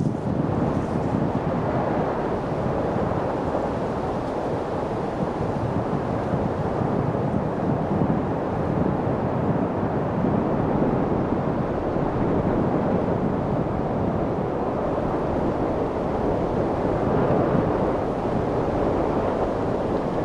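Wind blowing steadily: an even rushing noise with no distinct events.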